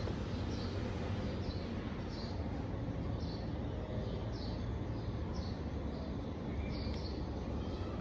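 Short, falling chirps of a small bird, about one a second, over a steady low rumble of background noise.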